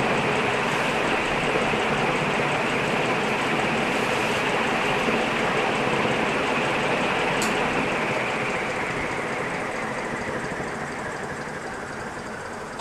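56-inch Nadair industrial ceiling fan running on high, a steady rush of air from its blades. A single sharp click comes about seven seconds in, after which the sound slowly dies down.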